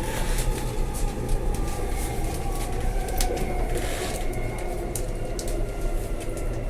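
Electric suburban passenger train running, heard from inside the carriage: a steady low rumble with frequent clicks and rattles, and a faint motor whine slowly falling in pitch as the train slows on its approach to a station.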